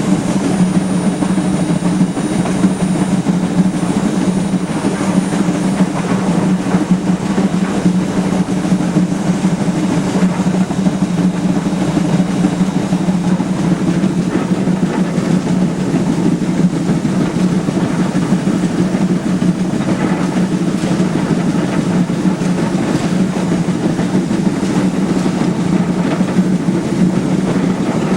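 A steam-powered excursion train pushed by a geared Heisler locomotive, running along the track with a loud, continuous rumble that holds steady without a break.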